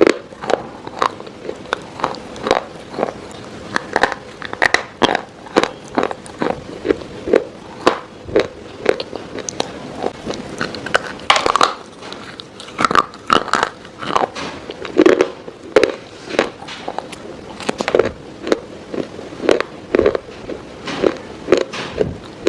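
Close-miked ASMR biting and crunching of something hard and brittle, with sharp irregular cracks several times a second.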